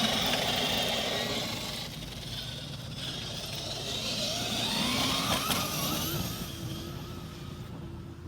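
Hobbywing EzRun 5687 1100kV brushless motor in a Traxxas X-Maxx RC monster truck running flat out on a speed run, its whine mixed with gear and tyre noise. The whine rises in pitch about five seconds in as the truck speeds up, and the sound fades toward the end.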